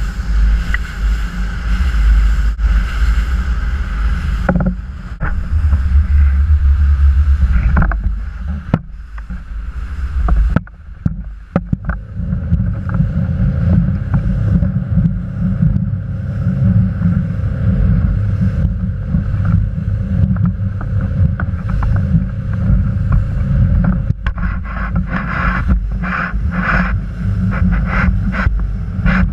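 Boat under way on open water: a heavy, uneven rumble of wind on the microphone over the hull and water noise, with a few short knocks partway through.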